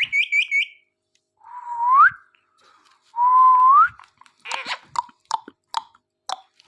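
A parrot gives four quick chirps, then two whistles that hold a level note and glide upward. These are followed by a run of about six sharp, short calls.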